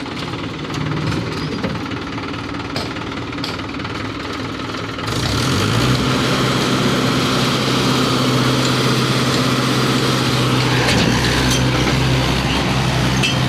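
Mahindra 375 DI tractor's three-cylinder diesel engine running, picking up to a louder, steady higher speed about five seconds in.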